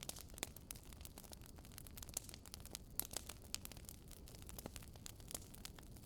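Wood fire burning in a fireplace: frequent sharp, irregular crackles and pops over a low, steady rumble of flames.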